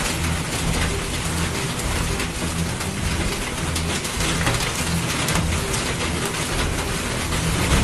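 Storm noise: steady heavy rain with gusty wind buffeting the microphone, and scattered small clicks and rattles.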